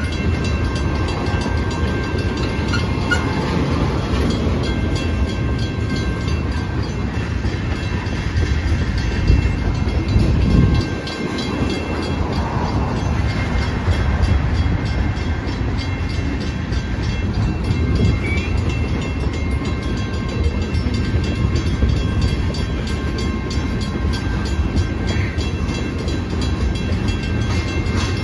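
Freight train tank cars rolling through a grade crossing, a steady low rumble, while the crossing's WCH mechanical bell rings on, a steady ringing tone over the rumble.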